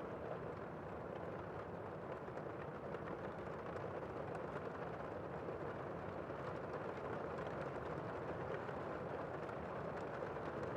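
Steady rain falling: an even rushing hiss with faint, scattered ticks of individual drops.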